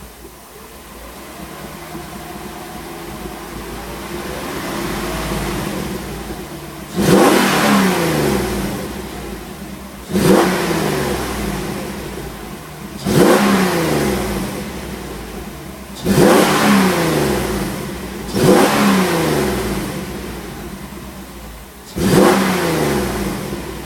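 Mercedes-Benz 400E's 4.2-litre V8 through a Renntech exhaust, its revs climbing slowly for the first few seconds, then blipped sharply six times, the revs falling away after each blip.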